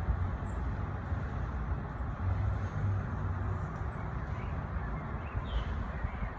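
Steady rumble of road traffic with faint, scattered short bird chirps over it.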